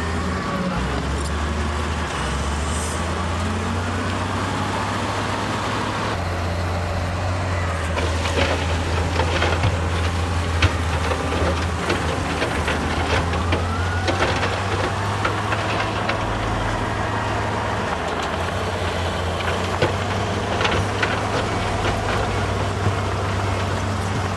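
Diesel engine of heavy earthmoving machinery running steadily, with scattered metallic clanks and knocks from about eight seconds in and a brief rising whine a few seconds later.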